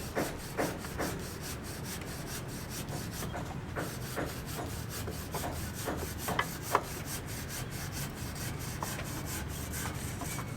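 Rapid, evenly repeated scraping or rasping strokes, several a second, with a few sharper clicks mixed in.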